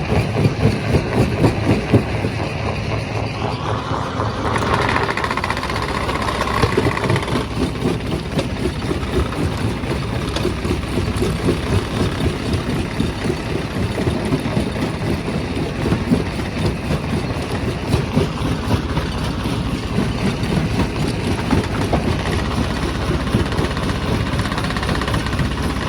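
Quarry rock crusher running: a heavy, steady machine drone with irregular knocks and clatter of rock being broken. A higher hiss rises over it for a couple of seconds about five seconds in.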